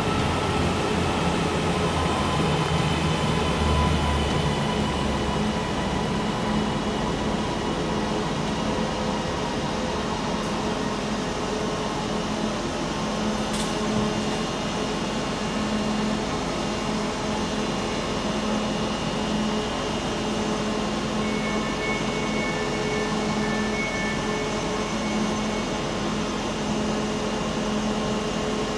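Northern CAF Civity multiple-unit train rolling to a stop, its low rumble dying away in the first few seconds. The stationary train then gives off a steady hum from its onboard equipment. There is a single sharp click about halfway, and a short run of faint high beeps about two-thirds through.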